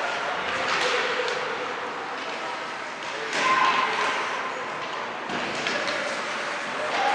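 Echoing rink din: indistinct voices of spectators and players with scattered sharp knocks and taps of hockey sticks and puck.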